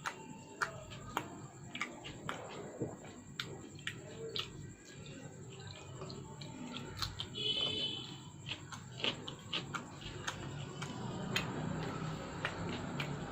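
Close-miked eating mouth sounds: wet chewing of roti and egg tarka, with irregular smacking clicks. A brief high chirp-like sound about halfway through.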